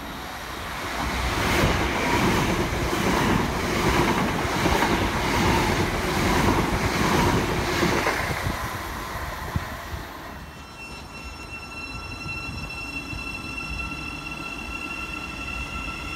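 An electric multiple-unit passenger train runs past on the near track with a rumble and a regular wheel clatter over the rail joints, loudest over its first eight seconds and fading by about ten seconds in. It is followed by a quieter, steady electric whine of several high tones.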